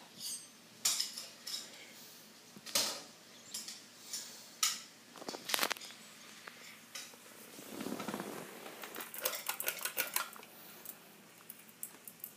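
Scattered light clinks and clicks, with a quick run of them about nine to eleven seconds in.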